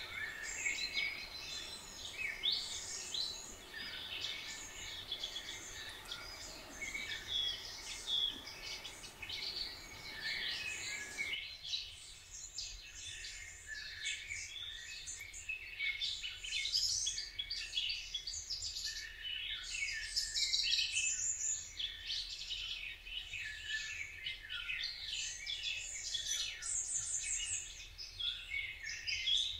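Dense chorus of many songbirds chirping and trilling, overlapping throughout, over a soft background rush that cuts out abruptly about eleven seconds in.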